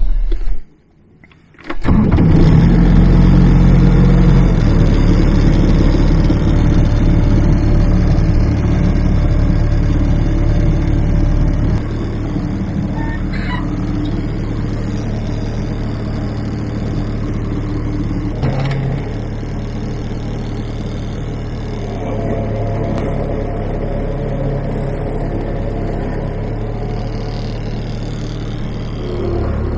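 An engine starts about two seconds in and then runs steadily, settling a little quieter around twelve seconds in.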